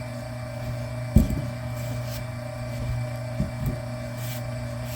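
Electric wire-stripping machine's motor running with a steady hum. A sharp thump comes about a second in, and two lighter knocks follow a couple of seconds later.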